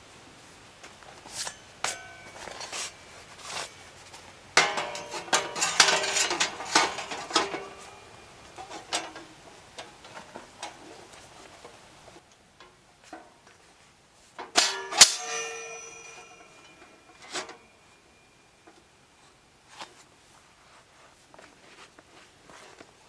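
Metal camp gear being handled: a series of clinks and clangs with short ringing, busiest about five to eight seconds in and again around fifteen seconds.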